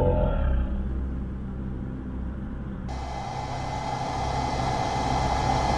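Road and engine noise of a moving vehicle heard from inside the cabin, a steady low rumble. About three seconds in, a steady hiss and hum join it.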